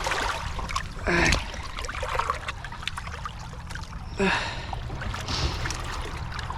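Shallow water lapping and splashing at the shoreline, under a steady low rumble of wind on the microphone. Two short vocal exclamations come about a second in and again about four seconds in.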